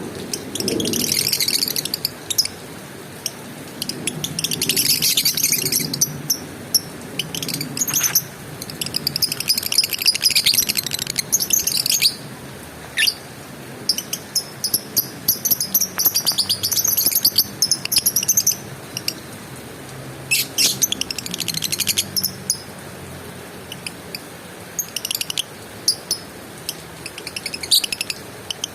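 Lovebird chattering in rapid, high-pitched trills, in spells of one to four seconds with short pauses between.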